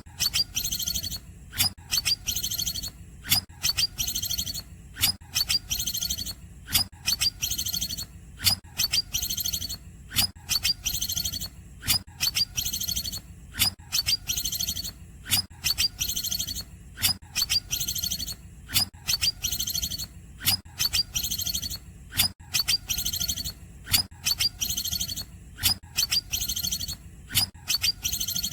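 Green leafbird (cucak ijo) singing short, high, rapid chirping phrases again and again, roughly one every second or two, over a steady low hum.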